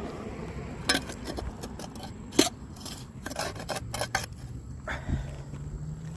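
Metal shovel scraping and clanking while digging out rotted wood, with two sharp clanks about one and two and a half seconds in and a run of scrapes in the middle.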